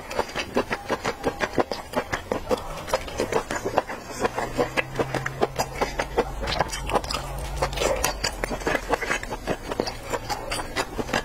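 Close-miked chewing of raw sashimi: a dense run of wet mouth clicks and smacks, many a second.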